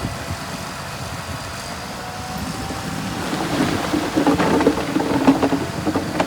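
Heavy construction machine's diesel engine running, growing louder about halfway through, with repeated sharp knocks and clanks over the engine in the second half.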